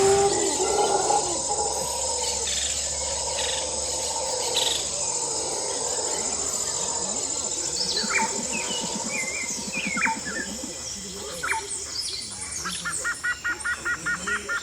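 Outdoor ambience of insects droning steadily at a high pitch while birds chirp. A bird repeats a short call about four times a second near the end.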